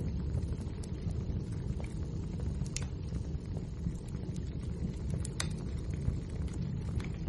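Wood fire burning in a fireplace: a steady low rumble of flames with scattered sharp crackles and pops. The loudest pops come about three seconds in and again a little past five seconds.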